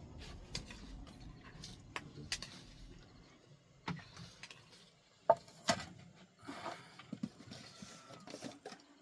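Irregular sharp clicks and knocks, loudest twice about five and a half seconds in, over a low rumble during the first three seconds.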